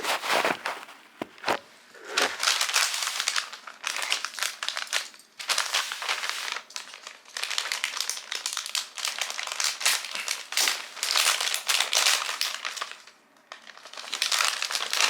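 Plastic garment bag crinkling and rustling in repeated bursts as it is handled and opened, with a brief pause near the end.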